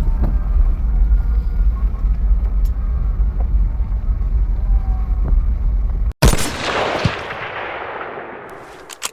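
A heavy, uneven low rumble that cuts off about six seconds in, followed at once by a sudden loud blast that dies away over about three seconds.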